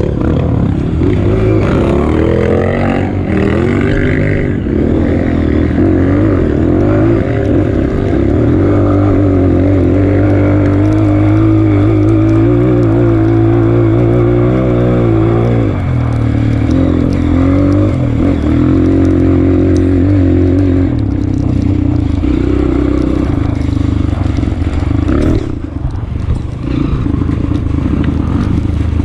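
Honda CRF230F's air-cooled single-cylinder four-stroke engine running under load on a trail, its pitch rising and falling with the throttle. The pitch drops about halfway through, and the engine briefly falls quieter near the end.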